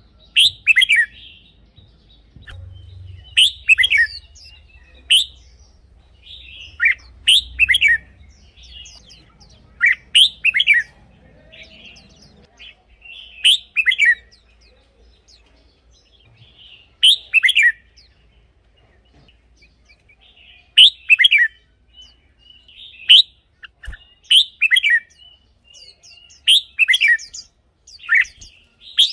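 Red-whiskered bulbul singing: short, loud whistled phrases of quick falling notes, repeated about every three seconds.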